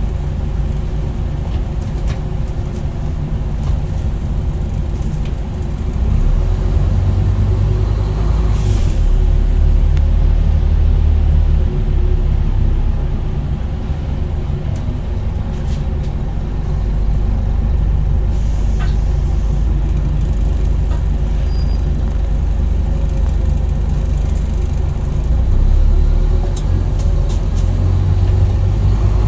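Scania N230UD double-decker bus's five-cylinder diesel engine running steadily under way, heard from on board, pulling harder for a few seconds partway through. A short air-brake hiss comes about nine seconds in.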